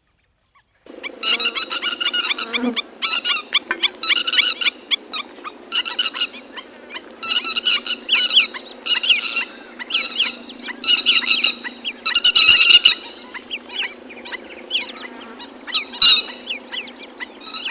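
A flock of water birds calling together, starting suddenly about a second in: repeated bursts of many short, rising notes.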